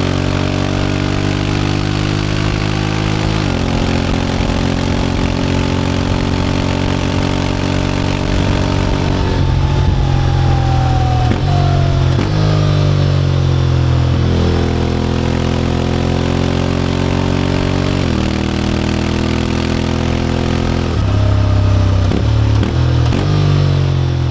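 Honda X-ADV 750's parallel-twin engine running through an SC-Project titanium slip-on exhaust while riding. The note holds steady, then falls and rises again several times as speed and gears change, with a few quick dips near the end.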